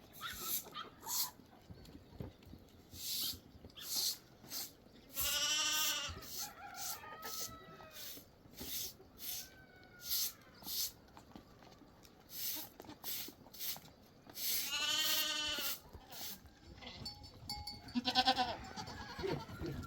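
A goat bleats twice, each call lasting about a second, with a shorter bleat near the end, over many short high chirps repeating throughout.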